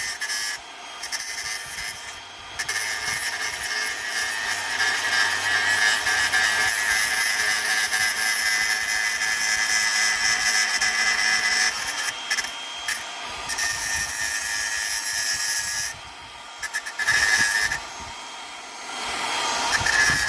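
Handheld power tool running with a steady high whine, worked against the metal of a microwave oven transformer, in long stretches broken by several short pauses.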